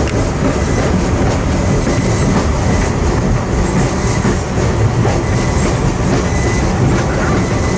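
Passenger train rolling along the track, heard from aboard the car: a steady rumble of wheels on rail with occasional faint clicks.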